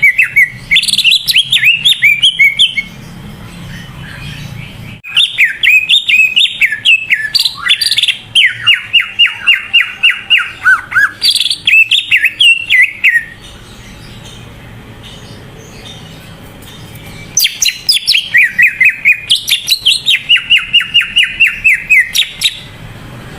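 Cucak ijo (green leafbird) singing its loud chattering song in three long phrases of fast, repeated swooping notes, several a second, with short pauses between phrases.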